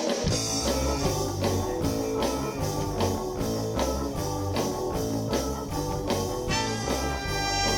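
Live rock band with a horn section playing a song's instrumental intro: drums, bass and electric guitar on a steady beat, with horns joining on held notes about six and a half seconds in.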